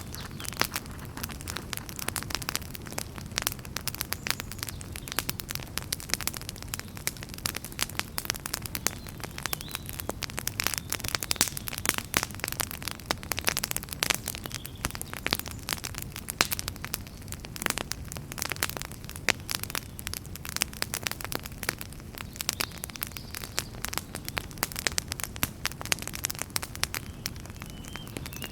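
Wood fire burning in a fireplace, crackling and popping continually and irregularly over a low steady rumble of flame.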